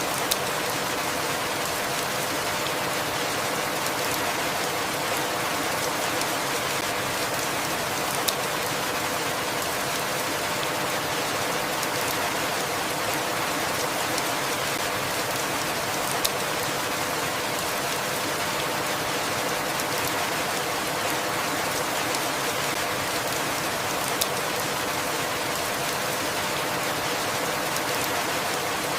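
Steady rain falling, an even rushing hiss with no change in strength. A single faint click sounds about every eight seconds.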